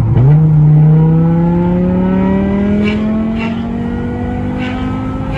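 BMW M6 E64's 5.0-litre V10 accelerating hard: a quick jump in revs at the start, then the engine note climbs slowly and steadily in pitch, easing slightly in loudness after the first second.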